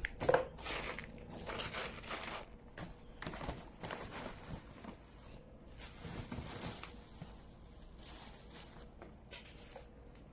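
Coarse gritty potting mix with large weathered-rock granules being scooped and poured into a pot, in irregular rustles and crunches.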